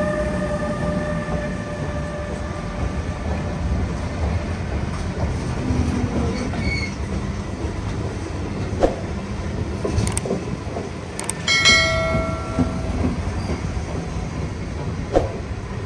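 Long container freight train rolling past behind a Renfe class 253 electric locomotive: a steady rumble and clatter of wagon wheels on the rails, with the locomotive's electric whine fading in the first few seconds. A few sharp clicks and a brief ringing tone sound about two-thirds of the way through.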